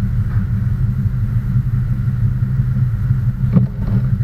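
Engine running at a steady idle, heard as a low rumble, with one short knock about three and a half seconds in.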